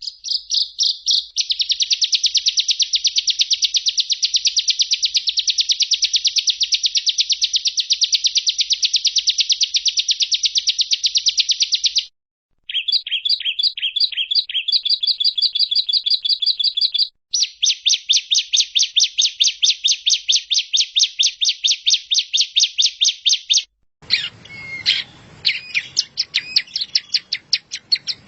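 Recorded songbird song used as masteran (training song for caged songbirds): long runs of rapid, high, fast-repeated chirp notes, cut off abruptly twice and resumed, then near the end a more varied set of calls over background noise.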